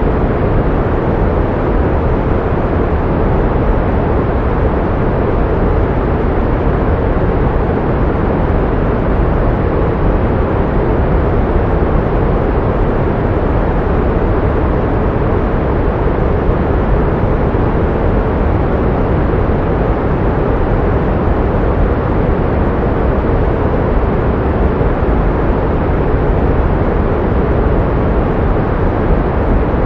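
Pink noise playing steadily: an even, unchanging hiss, heaviest in the low and middle range and thinning out toward the treble.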